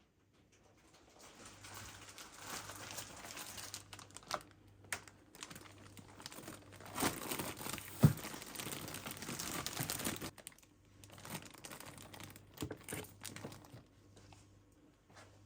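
Crinkling and rustling of something crinkly being handled, with one sharp knock about halfway through and a few lighter clicks later.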